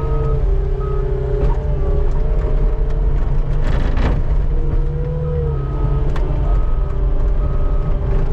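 Skid steer engine running steadily under load, its pitch shifting slightly up and down, with a brief rushing noise about four seconds in.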